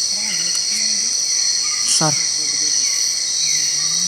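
Dense night chorus of insects such as crickets, a loud, steady high-pitched drone. Over it a short falling chirp repeats about twice a second.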